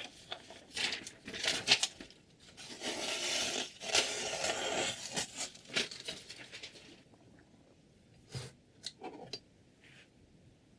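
Sharpening stone stroked along the edge of a 10Cr15CoMoV steel chef's knife clamped in a guided sharpening system: a run of scraping strokes for about seven seconds. Then it goes quiet apart from a few short clicks.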